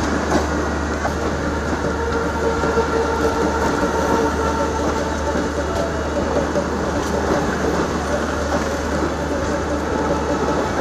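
Passenger train running on the track, a steady rumble with a few humming tones over it and occasional faint clicks of the wheels.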